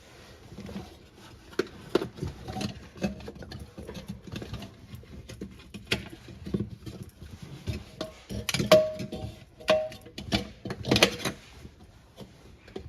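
Irregular knocks, clatter and scraping of hands working in a refrigerator's freezer compartment, clearing out ice, with a couple of brief squeaks about nine seconds in.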